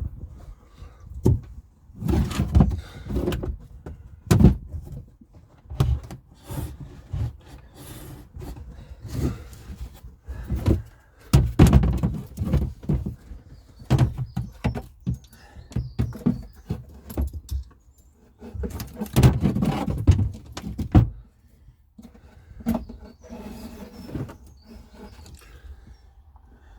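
Irregular knocks, clicks and rustling from handling tools and heavy electrical cable, with louder bouts of clattering and bumping a few times.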